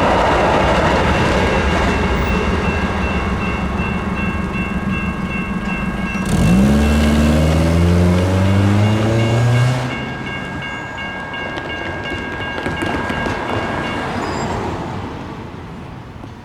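Light rail crossing signal's electronic bell ringing steadily over the rumble of passing light rail trains, stopping about 14 seconds in as the activation ends. About six seconds in, a loud low tone starts abruptly, rises slowly in pitch and stops after about three and a half seconds.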